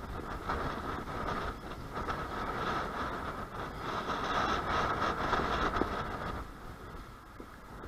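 A vehicle passing, with a steady whine over its noise, growing louder to a peak a little past the middle and then fading.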